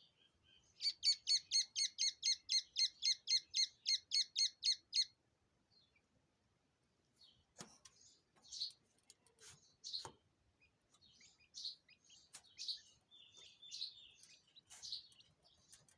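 A small bird singing. It gives a fast, even trill of about four repeated high notes a second, each falling in pitch, for about four seconds. After a pause it gives scattered short chirps, with a couple of sharp clicks among them.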